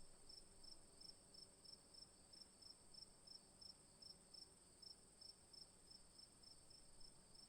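Faint insects: a steady high-pitched hum with a regular high chirp about three times a second.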